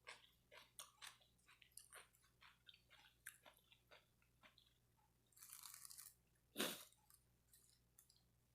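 A person chewing food with quiet, wet mouth clicks and crunches, heard up close. A short stretch of noise comes a little past five seconds, and one louder smack just before seven seconds.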